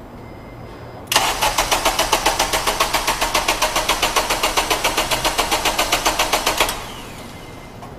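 Car engine cranking on the starter for about five and a half seconds, an even pulsing of about five beats a second, then the cranking stops without the engine catching: a no-start.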